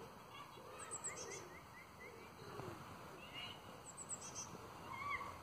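Faint birdsong: small birds give short chirps and calls, including a quick run of notes about a second in, over quiet outdoor background.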